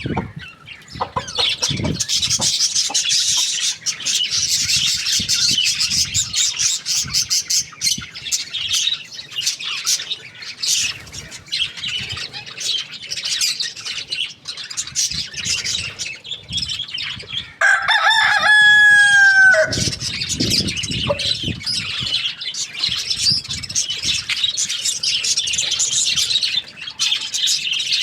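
A rooster crows once, a single call of about two seconds a little past halfway, over constant high-pitched chirping of other birds.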